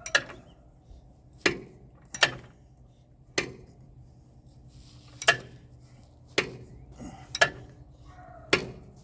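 Hand tools clinking on the metal fittings of an AGT mini excavator: about nine sharp metallic clinks at irregular intervals, two of them close together near the end, over a faint steady hum.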